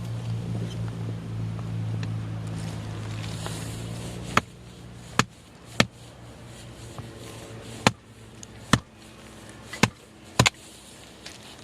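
Firewood being split with a hatchet: about eight sharp wooden strikes at irregular intervals, roughly a second apart. A low steady hum runs through the first four seconds, then stops.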